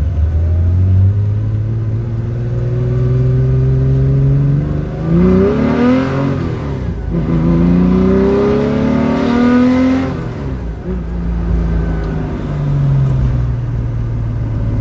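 Rebuilt air-cooled Porsche 911 3.0 flat-six with high-compression pistons, custom cams, headers and individual throttle bodies, accelerating hard: the engine note climbs in pitch, drops briefly at gear changes about five and seven seconds in, and climbs again. It pulls to about 5,500 RPM, then falls away after about ten seconds as the throttle is eased off.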